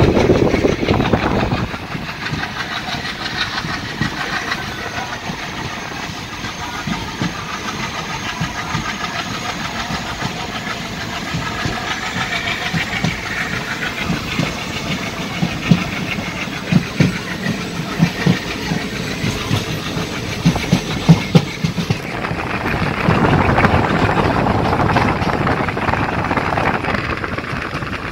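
Passenger train coach running on the rails, heard at the open door: a steady rumble and rush of wheel and wind noise. In the middle comes a run of wheel clacks over rail joints, and near the end a louder rush of wind and rail noise.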